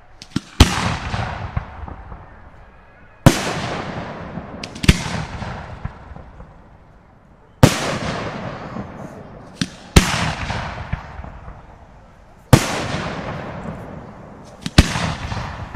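Aerial firework shells bursting: about seven loud bangs, two to three seconds apart, each trailing off in a long rumbling echo, with a few smaller sharp cracks between them.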